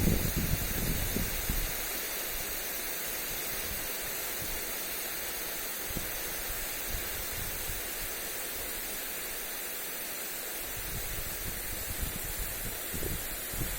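Steady hiss of a lawn sprinkler spraying water onto grass. Low wind gusts buffet the microphone in the first second or two and again near the end.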